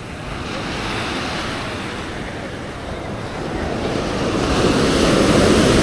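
Sea surf breaking on a sandy beach: a steady wash of waves that swells louder through the second half as a wave rushes in.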